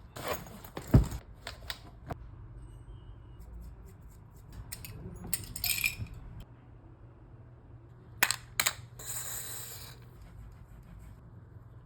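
Small metal clicks and clinks with a few brief scrapes, from handling a flute's keys and repair tools during a pad replacement. A cluster of sharp clicks comes in the first two seconds, and two more sharp clicks and a short scrape come about two thirds of the way through.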